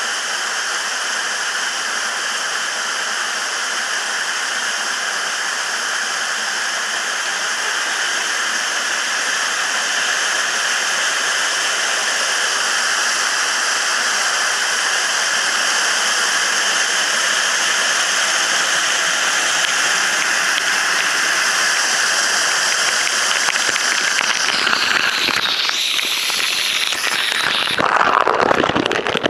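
Waterfall pouring with a steady rush of falling water. In the last few seconds it grows louder and rougher, like water splashing close to the microphone.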